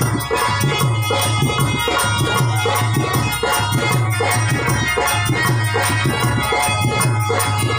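Harmonium playing held notes over a steady drum beat with fast percussion ticking along.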